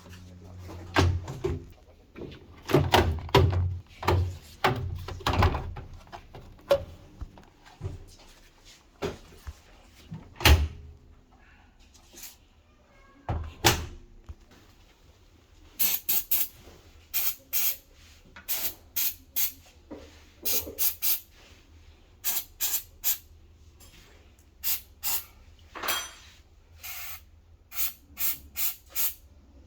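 Knocks and clatters of parts being handled, then a long run of short, quick hissing squirts from an aerosol spray can, starting about halfway through.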